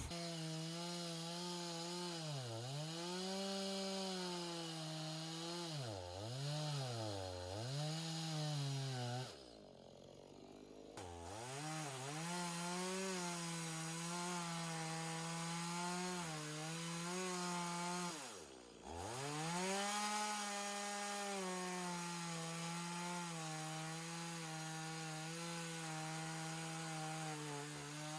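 Two-stroke chainsaw running at high revs, its pitch dipping again and again as it bogs under load in the cut. The engine falls away to a low note about ten seconds in and dips sharply once more near the middle before picking back up.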